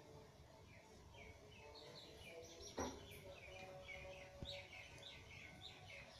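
Faint bird chirping, a quick run of short chirps repeating several times a second, with one sharp knock about three seconds in.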